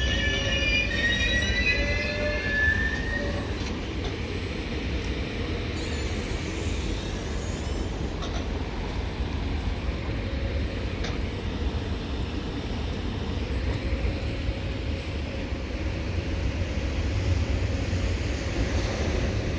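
Railway train at a station: wheels squealing on the rails for the first few seconds, fading out, then a steady low rumble.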